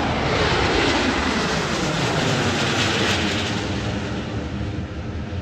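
Bombardier Global 8000 business jet flying past, its twin GE Passport turbofans giving a loud jet noise that peaks about a second in, falls in pitch as the aircraft passes, then slowly fades.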